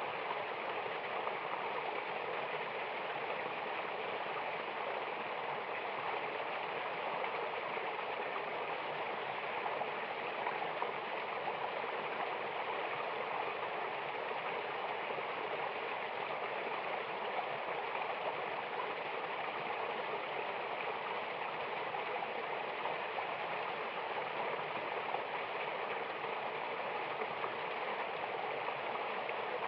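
Mountain waterfall, water rushing in a steady, unchanging roar.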